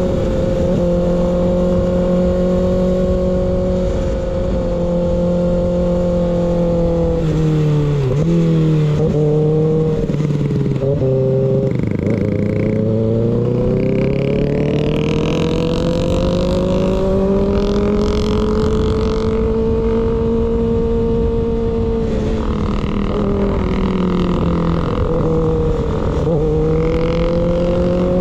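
Kawasaki ZX6R inline-four motorcycle running under way through an unbaffled M4 GP19 slip-on exhaust, its note rising and falling with throttle and gear changes, with a few quick drops in pitch about eight to eleven seconds in. Wind rushes steadily over the microphone throughout.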